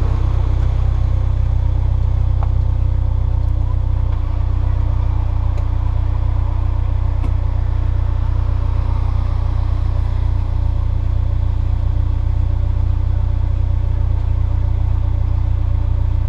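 Honda S2000's four-cylinder engine running steadily at low revs, with a few faint scattered ticks.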